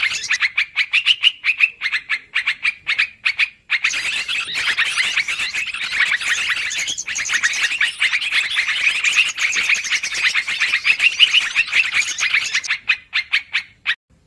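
Yellow-vented bulbul (trucukan) lure call: a dense, rapid chattering of notes, nearly continuous, breaking off briefly about three and a half seconds in and again near the end.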